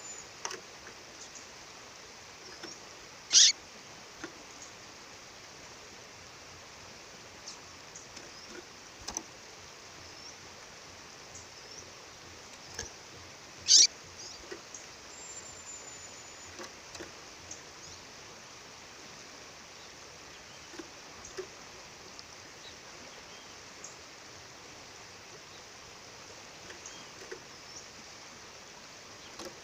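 A female songbird calling over the steady rush of a waterfall: two loud, sharp, high calls about ten seconds apart, with faint short chirps and a couple of thin high whistles scattered between.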